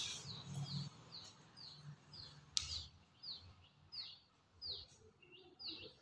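A bird calling over and over, a short high falling chirp about twice a second. A single sharp click sounds about two and a half seconds in.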